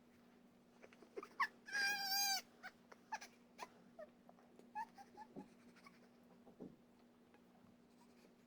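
Newborn baby whimpering during a bath: one short, wavering cry about two seconds in, with a few brief squeaks and small clicks around it.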